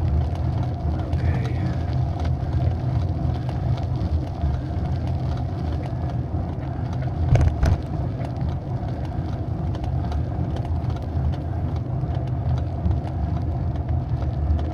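Steady low rumble of a bicycle rolling over a rough road, with many small clicks, rattles and creaks and a sharper knock about seven and a half seconds in. The rider cannot tell whether the creaking comes from the Pinion gearbox mount or from something else.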